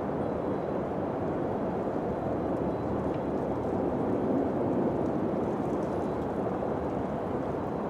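Steady, low wind noise with no distinct events, swelling slightly about halfway through.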